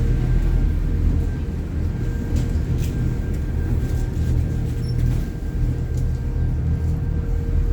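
Lake passenger boat's engine running with a steady low rumble and a faint constant hum, as heard on board while under way.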